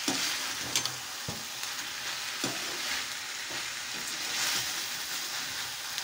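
Cabbage manchurian balls and gravy sizzling in a wok while a metal perforated spatula stirs them, with a steady frying hiss and a few short scrapes and knocks of the spatula against the pan.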